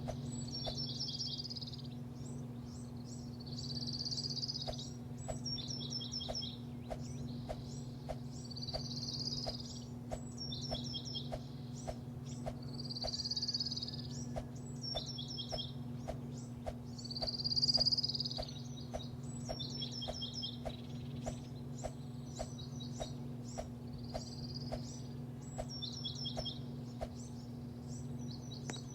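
Small birds chirping in repeated short phrases over a steady low machine hum, with a regular light ticking about twice a second.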